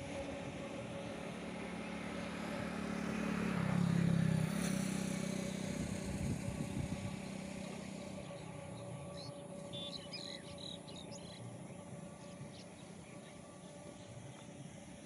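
A motor vehicle passes, its engine growing louder to a peak about four seconds in and then fading away. A few bird chirps follow about nine to eleven seconds in.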